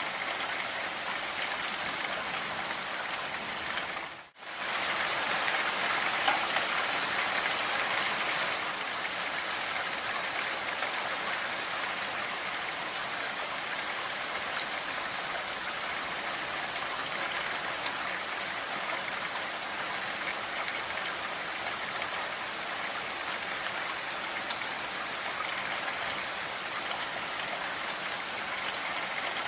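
Steady rain falling, an even hiss of many drops. It cuts out for a split second about four seconds in, then comes back slightly louder for a few seconds.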